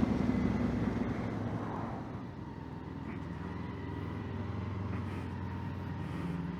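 Honda Africa Twin's parallel-twin engine running, easing off over the first couple of seconds and then holding a steady low note, as at idle.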